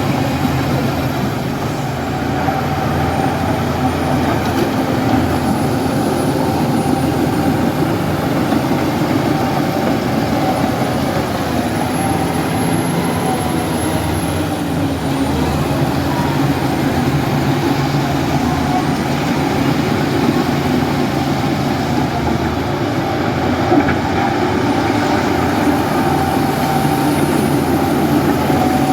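Heavy diesel engine of a Shantui bulldozer running steadily as it works, with a continuous low drone.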